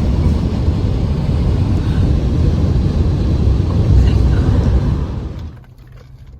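Steady, loud, low rumble of a vehicle on the road, which drops off abruptly about five and a half seconds in to a faint low hum.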